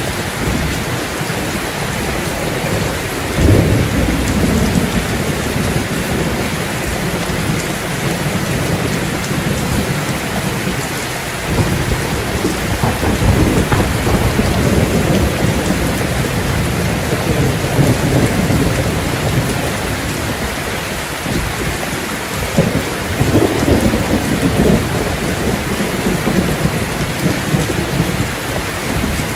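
Steady heavy rain with low rolls of thunder that swell up several times, the first about three and a half seconds in.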